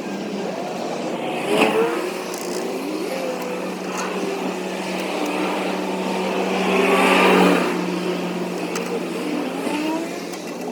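Steady mechanical hum, typical of a tanker truck idling during a fuel delivery, with a sharp metallic clank about a second and a half in and a swelling rush of hiss around seven seconds in.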